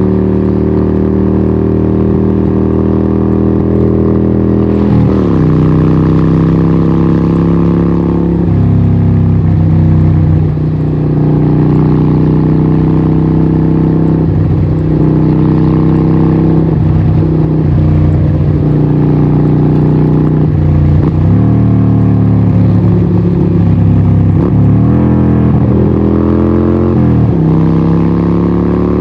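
Harley-Davidson 1200 Nightster's 1200cc Evolution V-twin running loud through a Vance & Hines exhaust. The engine note drops and climbs again several times.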